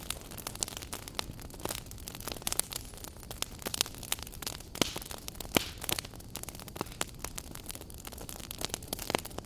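Wood fire burning in a fireplace, crackling and popping at irregular moments over a steady low rumble.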